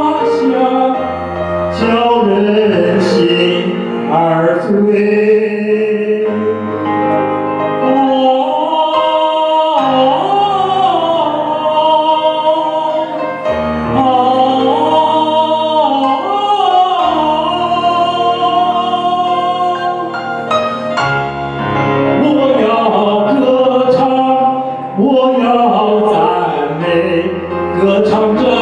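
A singer's wordless vocalise, a high melody with vibrato and gliding notes, over musical accompaniment.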